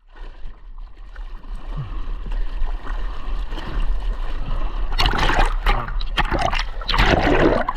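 Ocean water splashing and rushing over the microphone in the surf, with a steady low rumble underneath. The splashing swells louder about five seconds in and again near the end.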